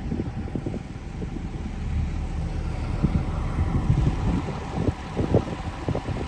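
Engine of a snow-clearing machine running as it clears snow from a parking lot, a steady low rumble with wind gusting on the microphone.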